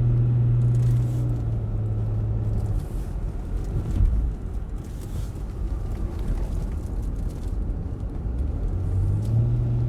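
Car engine and road noise heard from inside the cabin on a winding road: a steady engine drone that eases off about three seconds in and comes back near the end, with one sharp bump about four seconds in.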